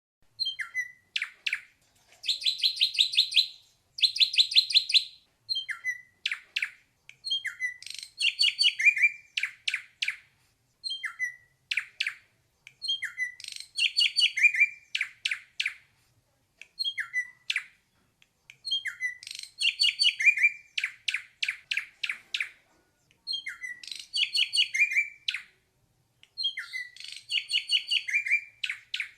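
Ashy drongo singing: phrases of a few short whistled notes and down-slurred calls, each ending in a fast rattling trill, repeated every few seconds with brief pauses between.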